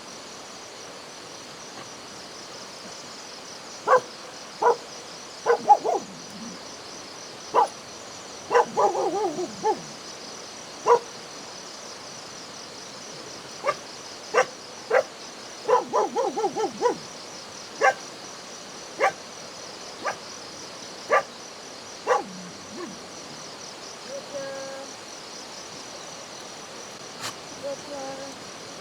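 A dog barking in short, sharp single barks and quick runs of barks, over a steady high drone of crickets and other insects.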